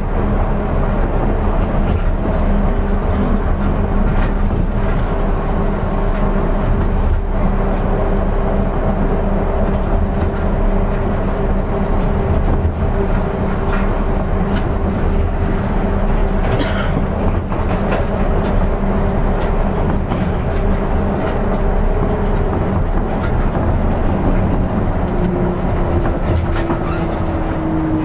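Running sound inside an Osaka Metro 200 series New Tram, a rubber-tyred automated guideway train, cruising between stations: a steady low rumble with a steady hum. Near the end a lower tone comes in and slides down in pitch as the train starts to slow for the next station.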